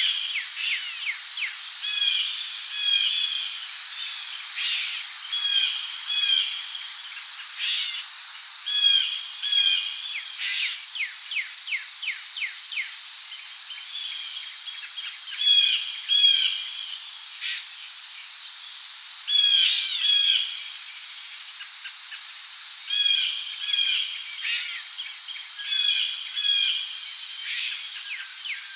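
Rainforest ambience: a steady high-pitched drone of crickets, with birds repeating short chirping phrases every second or two over it.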